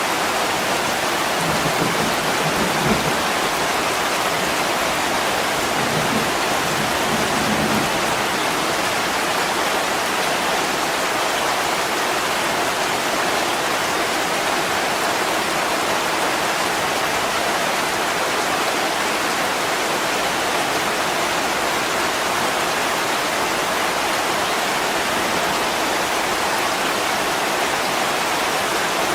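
Heavy rain pouring down on a window: a steady, dense hiss of drops and running water, with two brief low swells in the first few seconds.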